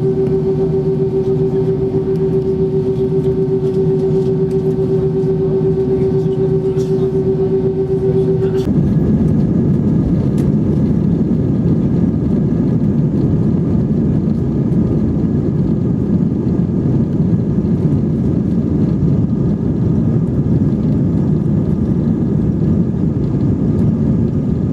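Airliner jet engines heard from inside the passenger cabin. A steady pitched hum runs for about the first nine seconds, then gives way suddenly to a louder, even rumble with a thin high tone: the engines at takeoff power during the takeoff run.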